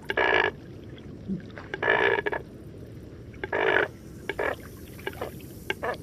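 A recorded animal's call repeated: short calls of about half a second each, about every one and a half to two seconds, with a few smaller calls in between. The recording cuts off abruptly at the end.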